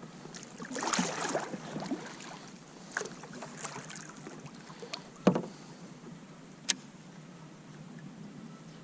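Handling noises aboard a fishing kayak: a rush of splashing and rustling about a second in, then a few scattered knocks and clicks, the loudest knock about five seconds in and a sharp click soon after.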